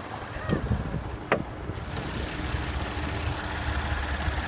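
Audi Q7's 3.0-litre supercharged V6 idling steadily. There are two sharp knocks in the first second and a half, and the engine sound becomes louder and brighter about two seconds in.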